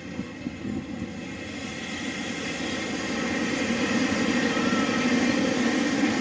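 Steady rumbling vehicle noise that grows louder over several seconds, like something approaching.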